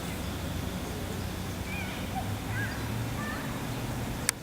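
A few short bird chirps over a steady low background rumble, with a sharp click near the end.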